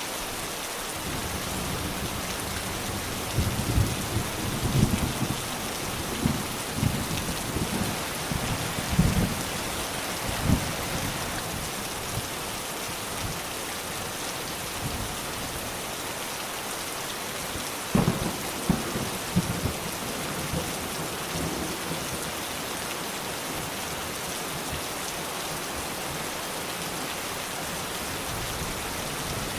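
Steady rain falling, with thunder rumbling twice: a long rolling bout a few seconds in, and another that opens with a sharp crack just past the middle.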